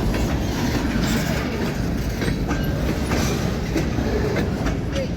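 Freight train cars rolling past: a steady rumble with wheels clicking over the rails and a few short, faint wheel squeals.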